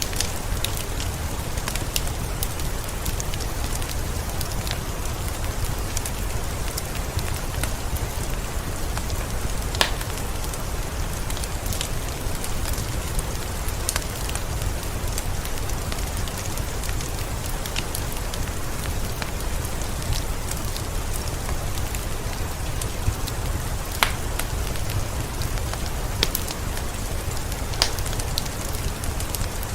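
Steady rain mixed with a fireplace's wood fire crackling, giving scattered sharp pops over an even hiss and a low rumble.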